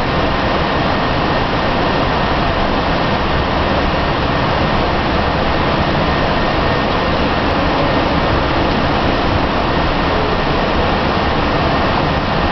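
Steady, even rushing noise on the flight deck of a Boeing 767-300 under tow: air and machinery noise with no change in level.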